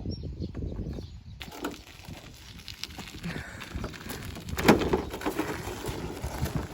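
A log being struck once while splitting firewood: one dull knock about halfway through, with lighter knocks and clatter of wood around it.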